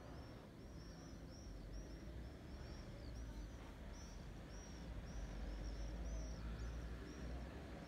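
Small birds chirping continuously in short, high-pitched notes, several a second, over a steady low outdoor rumble.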